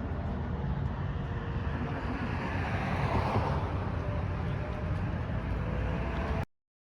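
Steady outdoor background noise with a heavy low rumble, swelling a little about three seconds in, then cutting off suddenly near the end.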